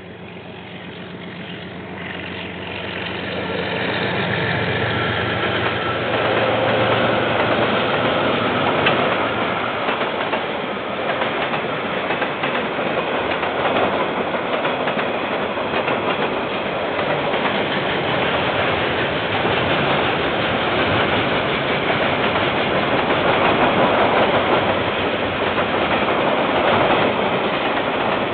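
KiwiRail diesel train approaching and passing. The sound builds over the first four seconds, then holds as a steady rumble and clatter of wagon wheels on the rails.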